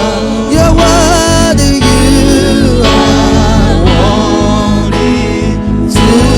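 Gospel music with singing over a band's steady beat.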